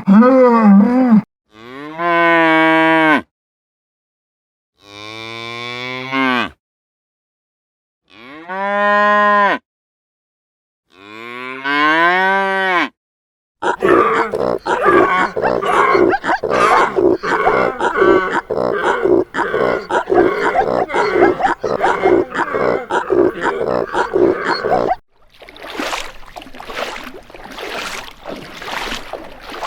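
Cattle mooing: four separate long moos, each rising and then falling in pitch, with silences between. They are followed by a long, dense, rough stretch of unidentified sound and a quieter noisy stretch near the end.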